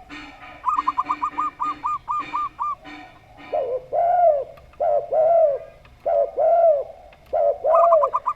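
Zebra dove (perkutut) giving a rapid series of short, higher cooing notes. A spotted dove (tekukur) follows with four lower two-part coos, each a short note followed by a longer arched one. The zebra dove's quick run starts again near the end.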